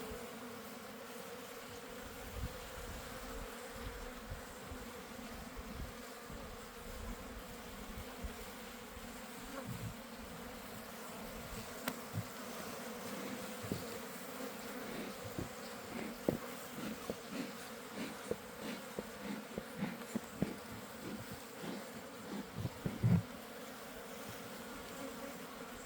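Honeybees buzzing steadily in a large number around an open hive, with scattered knocks and clicks that grow more frequent in the second half and are loudest about 23 seconds in.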